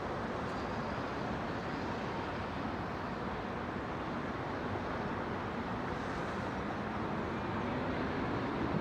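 Distant city traffic: a steady wash of road noise with engine hum from passing vehicles, growing a little louder near the end.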